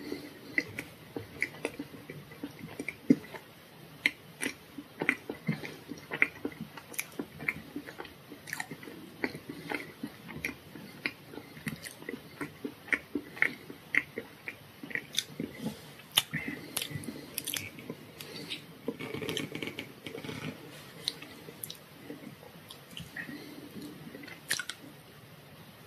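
Close-up chewing and mouth sounds of eating soft chocolate cake and tart: a long run of short, wet clicks. Now and then comes the click and scrape of a plastic fork and knife cutting on a wooden board.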